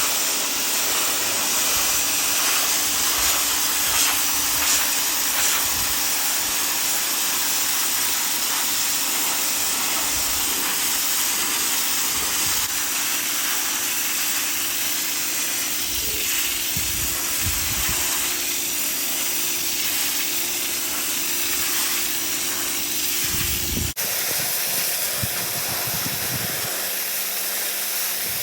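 Pressure washer running, its water jet hissing steadily against driveway tiles over a constant low motor hum.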